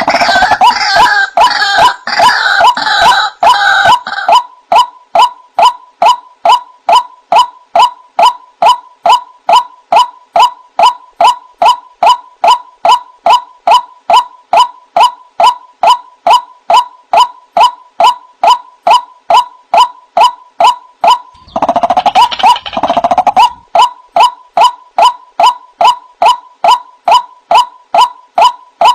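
White-breasted waterhen calling: a monotonous series of repeated 'wak' notes, about two and a half a second, with bursts of faster, jumbled calling at the start and again about 22 seconds in.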